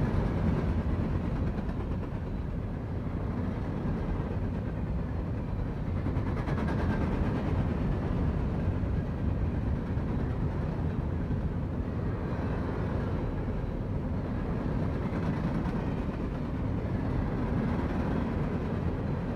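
Freight train rolling past, a steady rumble of wheels on rails.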